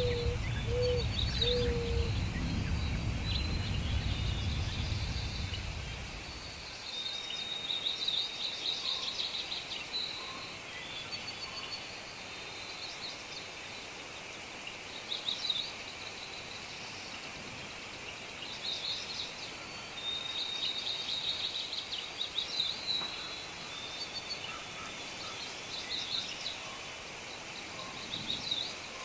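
Small birds chirping and trilling in short bursts over a steady outdoor hiss. A low rumble underneath stops about six or seven seconds in, and a few short low notes sound in the first two seconds.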